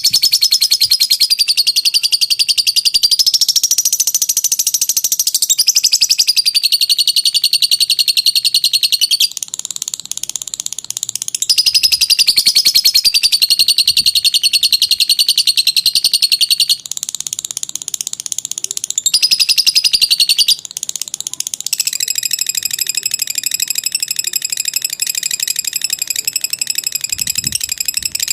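Lovebird's long 'ngekek' chatter: a rapid, high-pitched trill delivered in long unbroken phrases of several seconds, shifting in pitch and pattern, with a few brief softer stretches between phrases.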